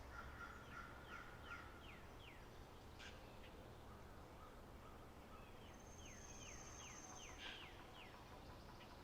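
Faint spring-meadow birdsong ambience: bursts of quick down-slurred bird notes, several a second, and a thin high whistle held for about a second, over a low steady hum.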